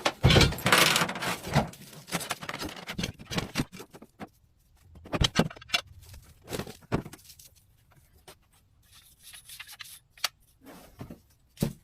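Objects being shifted and pulled about in an aluminium boat: irregular scrapes, rustles and sharp knocks, loudest and busiest in the first two seconds, then a few scattered knocks.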